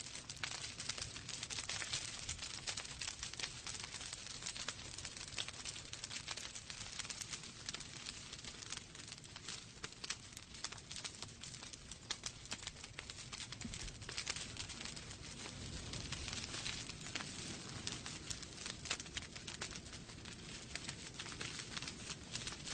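Wood fire burning in a fireplace, logs crackling with many small irregular pops over a steady hiss and low rumble of the flames.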